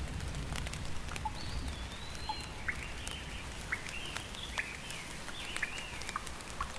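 Steady rain with scattered drops ticking, and a bird calling over it from about a second in: a string of short arching chirps and whistled notes.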